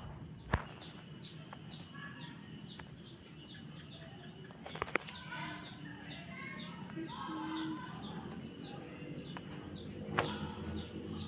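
Small birds chirping rapidly and continuously in the background, many short, quick, high chirps several times a second. A few sharp clicks sound about half a second, five seconds and ten seconds in.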